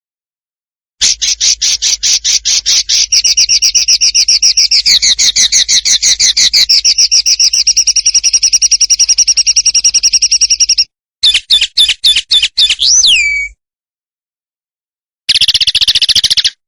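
Songbird song from a masteran training recording: a rapid, dense trill of repeated high notes lasting about ten seconds, then a short burst of separate notes ending in a downward slur. After a pause, another fast trill begins near the end.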